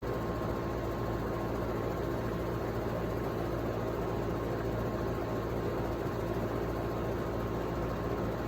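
Porsche Macan S running at idle: a steady hum with a faint high whine, unchanging throughout.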